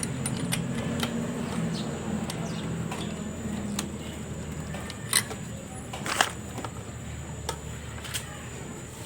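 Metal tools or parts clinking a few times during motorcycle repair work, with one short jangling rattle about six seconds in, over a low hum that fades away in the first few seconds.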